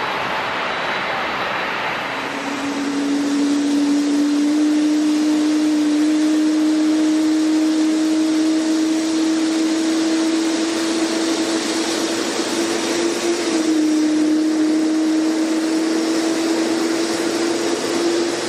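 Airliner engines running at low power: a loud, steady whine over a rushing noise, creeping slowly upward in pitch with a brief dip partway through.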